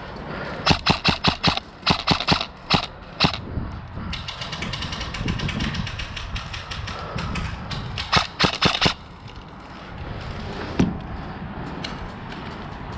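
Airsoft guns firing in quick bursts of sharp shots, with a fainter fast rattle of continuous fire in the middle, another burst near the end and one last single shot.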